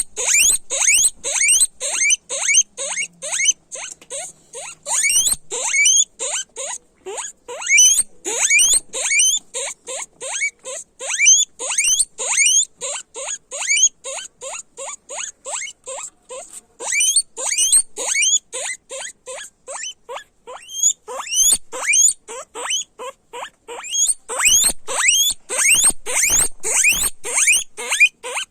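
Guinea pigs squealing loudly, a fast string of short, high, rising whistles several times a second.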